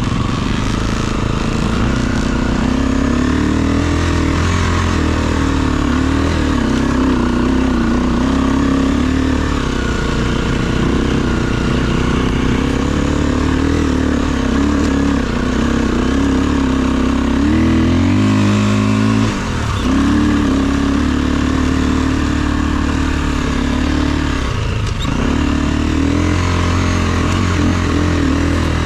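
Dirt bike engine running under way, its pitch wavering with the throttle, with a brief rise and sharp drop about two-thirds through and another short drop a few seconds later.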